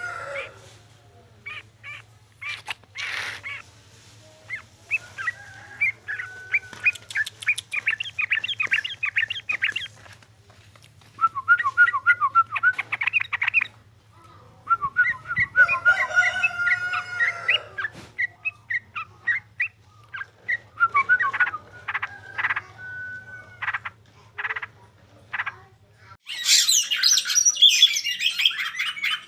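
Songbird singing energetically in rapid chirps, trills and squawking notes, in phrases broken by short pauses, over a steady low electrical hum. Near the end the hum stops and louder, higher, denser calls take over.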